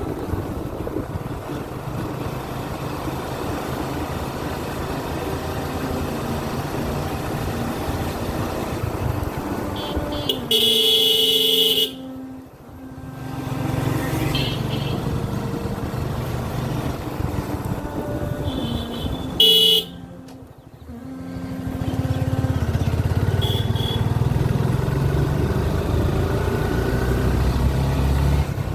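Suzuki Gixxer FI ABS single-cylinder motorcycle engine running on the road with steady road noise. A vehicle horn blasts for over a second about a third of the way in, again briefly about two-thirds in, and gives a short toot a little later.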